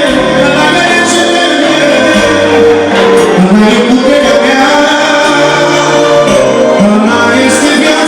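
Band music with a voice singing over it, loud and continuous.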